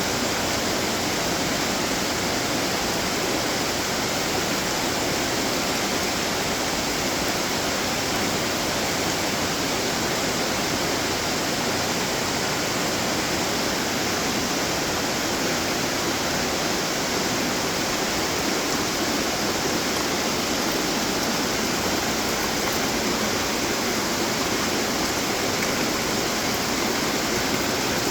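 Steady rush of water splashing and trickling from many running decorative fountains.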